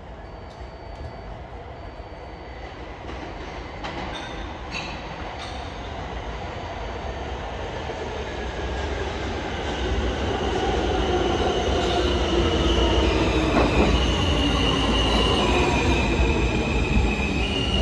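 R160 subway train pulling into the station, growing steadily louder. Its motor whine falls in pitch as it slows, and high wheel squeal comes in about ten seconds in, stepping between two pitches.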